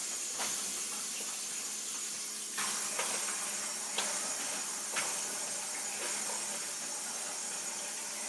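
Steady hiss with a few soft, short clicks and taps scattered through it, from raw chicken being mixed with seasonings by hand in a bowl.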